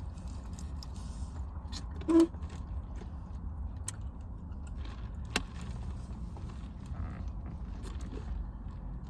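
A person chewing a big mouthful of fast food, with small scattered clicks and crackles over a steady low rumble. There is a brief short vocal sound about two seconds in and a single sharp click about five seconds in.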